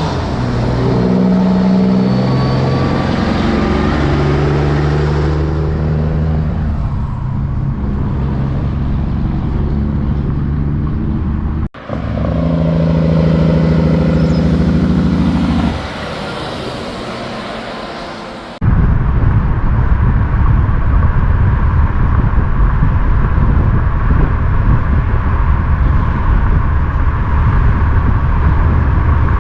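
Big-rig diesel truck engines in short clips cut together: an engine running with a steady low drone, a sudden cut about twelve seconds in to another engine, then a second cut a little past halfway to a steady, loud low rumble.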